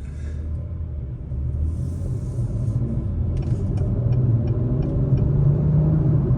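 2021 Acura TLX Type S's turbocharged 3.0-litre V6 accelerating, its engine note rising steadily in pitch and growing louder as the turbo spools up.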